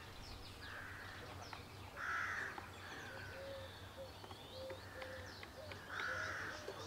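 Birds calling: a harsh call three times, with higher chirps in between. A few faint clicks from the plastic trimmer head being handled as the line is threaded through.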